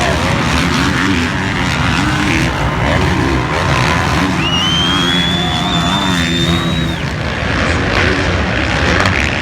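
Motocross dirt bike engines running and revving, their pitch rising and falling, over a constant noisy background. A thin high tone rises about halfway through, holds, and stops a few seconds later.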